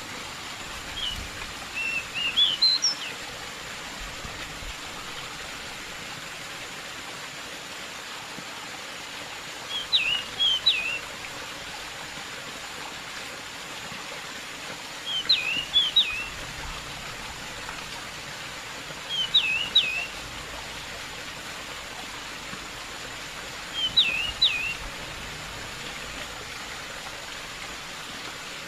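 Steady rush of flowing water, over which a pied bushchat (decu) sings five short, quick whistled phrases, one every four to five seconds.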